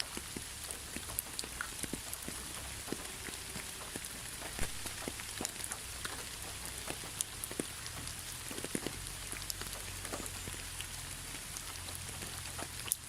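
Steady rain falling, an even hiss with many individual drops ticking at random and a low rumble underneath.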